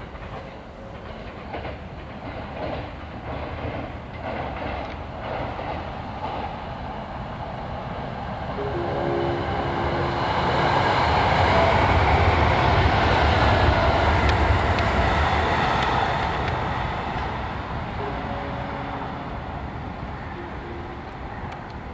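JR Kyushu 787 series electric train crossing a steel railway bridge: wheels knocking over the rail joints, the rumble swelling to its loudest about halfway through, then fading as the train moves away.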